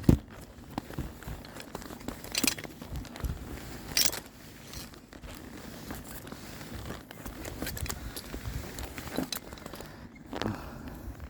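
Tree climber descending on a climbing rope: irregular knocks, scrapes and rustles of gear against bark and branches. A sharp knock comes right at the start, with brief scraping swishes about two and a half and four seconds in.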